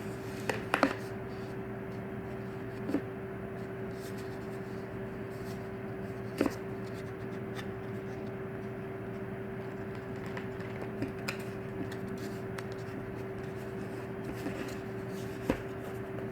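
Hands handling a new smartphone's retail box and packaging: scattered taps, scrapes and a few sharper clicks, over a steady low electrical hum.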